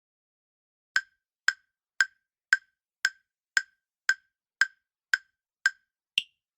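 Quiz countdown-timer sound effect: ten short, evenly spaced ticks about two a second, followed by one higher-pitched click that marks the end of the answer time.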